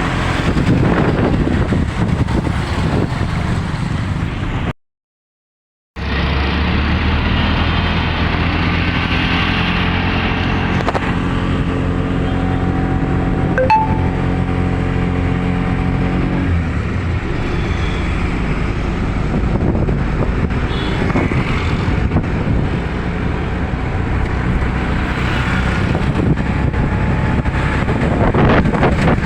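Steady hum of vehicle engines and traffic. From about six seconds in, one engine drones steadily for around ten seconds, then fades into the general din. The sound cuts out completely for about a second near the start.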